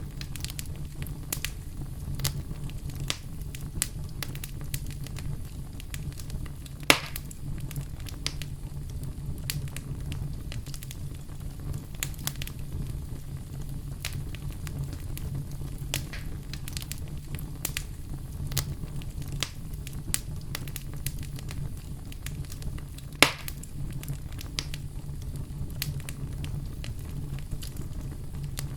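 Campfire burning steadily with a low rumble and frequent small crackles, and two louder sharp pops, one about seven seconds in and one near twenty-three seconds.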